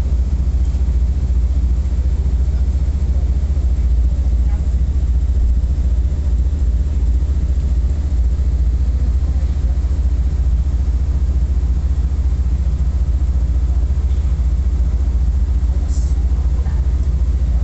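Passenger train running along the track, heard as a steady low rumble that does not change.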